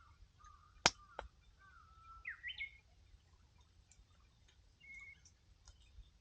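Wood fire crackling with a few sharp pops, the loudest a little under a second in, while a bird calls in short whistled notes, some rising in pitch.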